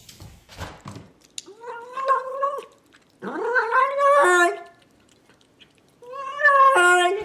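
A cat yowling: three long drawn-out meows, the second and third louder than the first.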